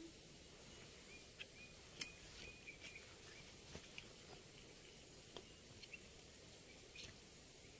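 Near silence with a faint steady hiss, broken by scattered soft clicks and taps and a few faint short high chirps.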